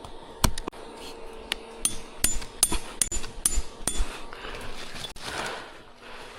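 A hand tool striking repeatedly: about ten sharp blows over three and a half seconds, at an uneven pace.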